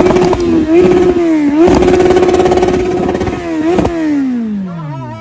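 Sport motorcycle engine revving hard: several quick climbs in pitch, held high for about a second and a half in the middle, then winding steadily down near the end as the throttle closes.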